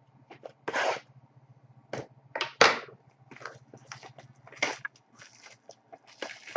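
Handling of trading-card packaging and cards: irregular crinkling and rustling bursts, a few louder, over a faint low hum that stops about five seconds in.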